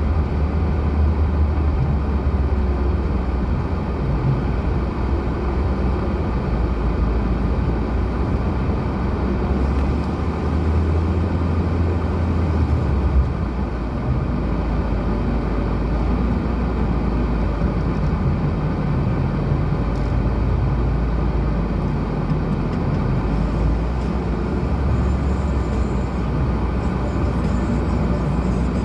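Lada Granta car driving along a rough dirt track: steady engine and road rumble that holds even throughout, with slight dips and swells.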